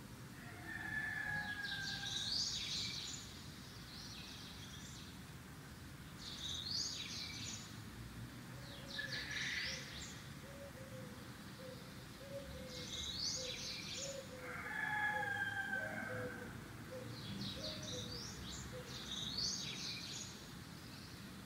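Birds singing: short bursts of high chirping phrases every few seconds, with a few lower drawn-out whistles, over steady background noise.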